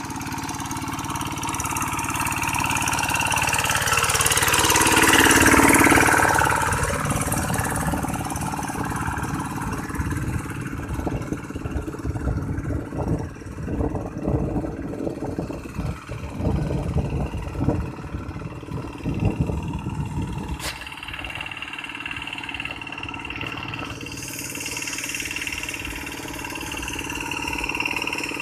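Tractor engine running, swelling louder around five seconds in, then chugging unevenly for several seconds before settling back to a steady run; one sharp click partway through.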